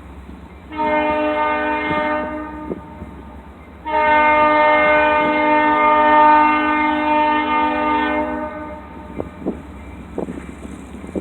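Freight locomotive's multi-chime air horn sounding for a grade crossing: a blast of about a second and a half, then a long blast of about four seconds, over the low rumble of the diesel. A few sharp clacks follow near the end.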